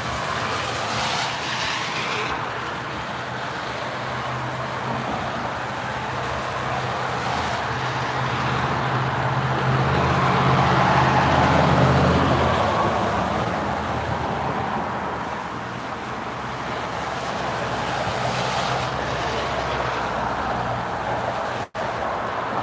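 Steady road-vehicle noise: a running motor with tyre and traffic noise, swelling about halfway through and then easing off.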